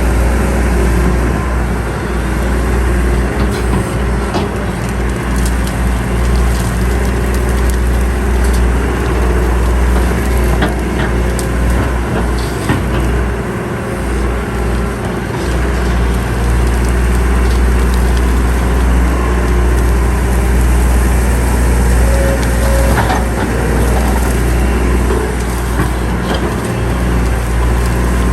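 Diesel engine of heavy earthmoving machinery running steadily, dipping briefly about halfway through, with scattered knocks and crunches of soil and stone being worked.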